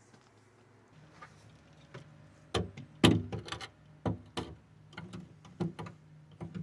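Irregular sharp clicks and knocks, a dozen or so, starting about two and a half seconds in, over a low steady hum that comes on about a second in.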